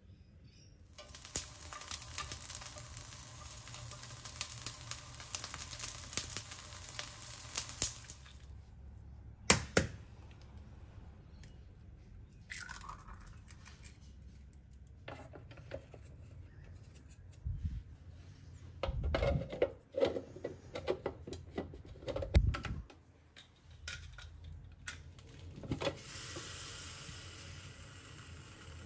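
Eggs being cracked into plastic egg-poaching cups: scattered sharp taps and cracks of shell, with two heavier thumps in the middle. Near the end a steady hiss sets in as the electric egg cooker steams. A crackling hiss with many small clicks fills the first several seconds.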